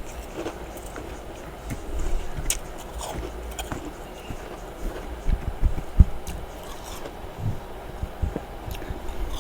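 Freezer frost being bitten and chewed: irregular crisp crunches and crackles, with a heavier crunch about six seconds in.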